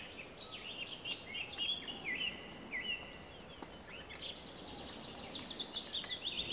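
Small songbirds chirping and calling, with a fast run of short high notes, about five a second, starting about four seconds in.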